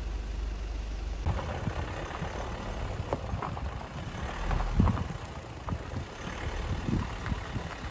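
Vehicle running with a steady low engine rumble. About a second in, road noise and scattered knocks and rattles join it.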